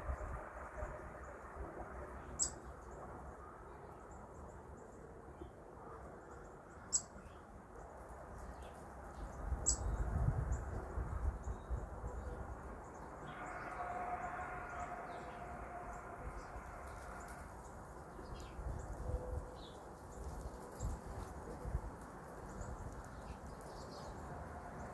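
Wild songbirds giving short, high chirps and calls, with three sharper chirps in the first ten seconds and fainter calls scattered throughout, over a low background rumble.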